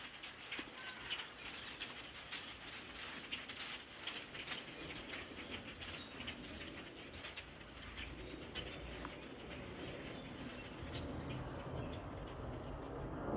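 A large flock of birds in trees, many short calls overlapping into a constant chatter that thins near the end. A low rumble builds under it in the second half.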